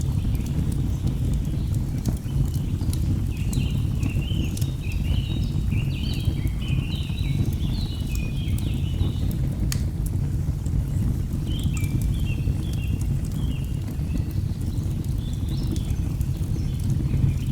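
Steady low rush of a waterfall with birds chirping in quick repeated phrases, in three spells, and the sharp pops of burning logs crackling throughout.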